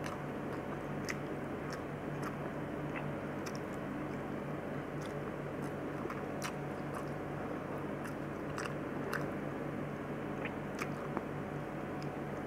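A woman chewing mouthfuls of rice and macaroni close to a clip-on microphone, with many small wet clicks and smacks scattered through, over a steady low hum.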